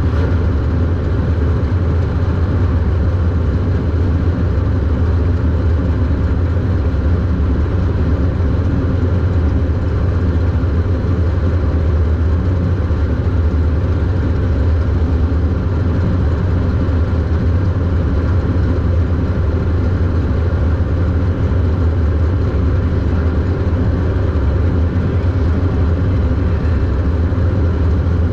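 Super Stock race car engine running, heard from inside the car as a loud, steady low drone with no clear revs up or down.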